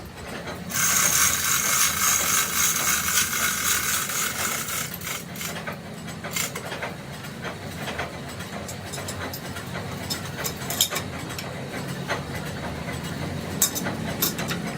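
Workshop machinery running with a steady low hum. A loud hiss starts just under a second in and cuts off suddenly about four seconds later, followed by scattered metallic clicks and knocks.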